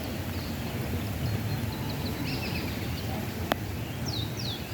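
Birds calling in short, quickly falling high chirps, a few about two seconds in and two more near the end, over a steady low rumble. A single sharp click about three and a half seconds in.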